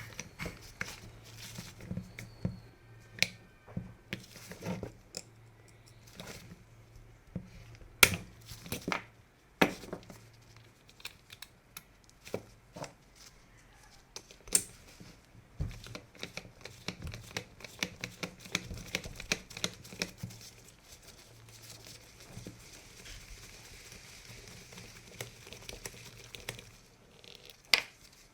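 Hands working on a DeWalt DCD710 cordless drill: many scattered clicks, knocks and rustles of plastic and metal parts, over a faint steady low hum.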